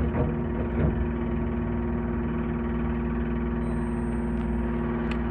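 Steady electrical hum inside a Meitetsu 2000 series μSKY electric train car, holding an even pitch, with a couple of faint knocks about a second in.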